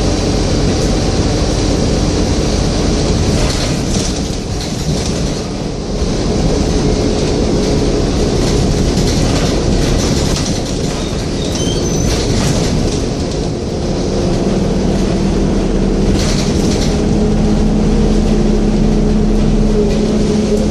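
Scania N230UD double-decker bus's five-cylinder diesel running on the move, a rough rumble with occasional rattles. A steady low engine hum comes in about two-thirds of the way through.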